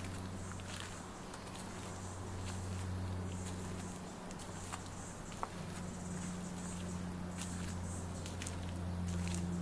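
Footsteps on a bush walking track, irregular light scuffs and crunches, over a steady low hum of road traffic.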